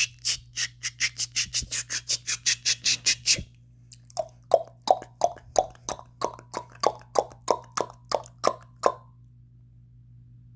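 A man making mouth clicks and tongue pops as a mock bird call: a fast run of sharp clicks, about seven a second, that stops about three and a half seconds in, then a slower run of lower, hollow pops, about three a second, ending near the end.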